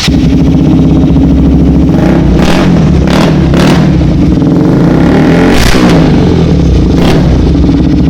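KTM motorcycle running loudly through a newly fitted aftermarket exhaust and being revved, its pitch dipping and climbing again a little past halfway, with a few sharp cracks along the way.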